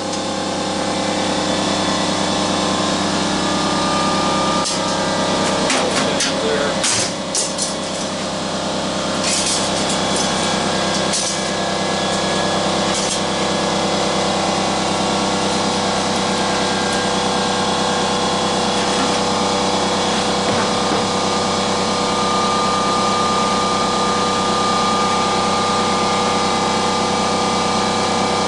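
A power tool's motor running steadily and without a break, with a few sharp clicks and knocks in the first dozen seconds.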